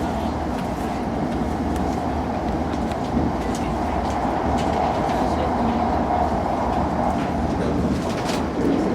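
Hokkaido Shinkansen running at speed, heard from inside the passenger car: a steady rumble and hum with faint scattered clicks.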